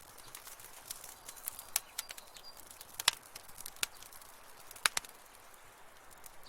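Wood fire crackling in a fireplace: scattered sharp pops and snaps over a soft hiss, the loudest pops about three and five seconds in.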